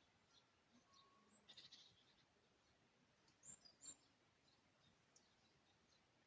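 Very faint campfire crackling: scattered soft pops and clicks, the two loudest about three and a half seconds in, with faint high bird chirps.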